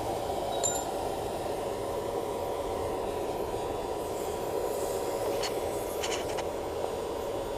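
Steady rushing noise of an electric blower forcing air into a charcoal-fired paint-can furnace, with a few faint light clicks.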